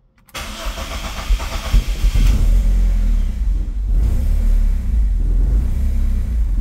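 BMW M42B18 four-cylinder engine starting from cold: it cranks and catches about a third of a second in, runs rough and busy for about two seconds, then settles into a steady cold idle. The owner traces a rattle that is most noticeable when cold to a fatigued timing chain tensioner.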